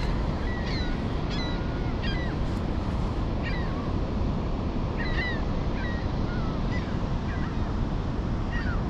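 Steady rush of water flowing through an open dam, with birds making short chirping calls over it, about once or twice a second.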